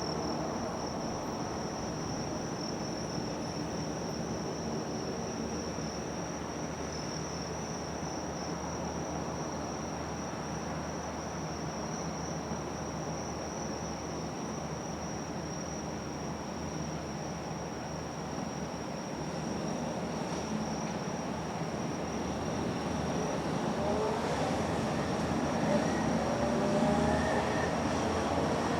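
Insects chirping in a steady, high-pitched drone over a steady outdoor rumble. In the last few seconds a passing motor noise grows louder, with faint rising and falling tones.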